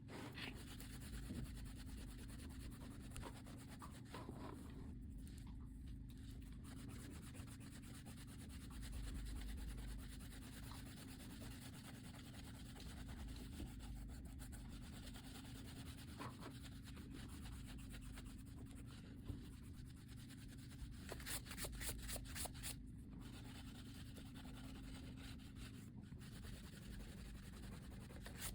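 Drawing strokes rubbing on paper, soft and continuous, with a run of quick back-and-forth strokes about two-thirds of the way through.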